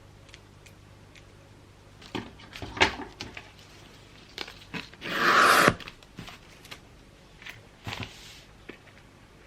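Gift-wrapping materials being handled: scattered light rustles and taps, then a loud noisy burst lasting over half a second about five seconds in, and a couple more taps near the end.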